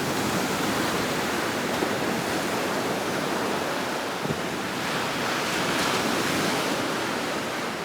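Gulf of Mexico surf washing onto a sandy beach: a steady rush of breaking waves that swells a little past the middle, with some wind on the microphone.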